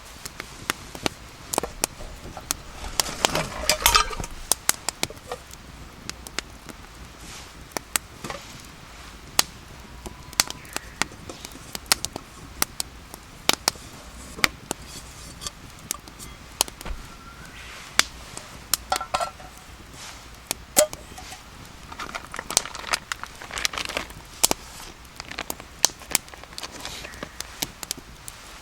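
Wood campfire crackling with irregular sharp pops, with a few short bursts of clattering from cooking gear being handled.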